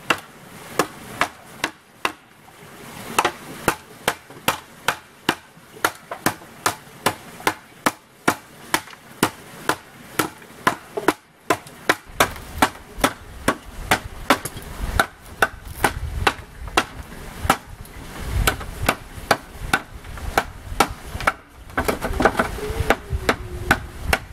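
A steady run of hand-tool blows on wood, about two a second, each a sharp crack; a low rumble joins about halfway through.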